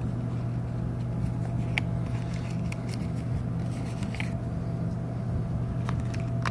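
Cruise ship's machinery humming steadily during docking, a low drone with a faint higher whine above it and a few faint clicks.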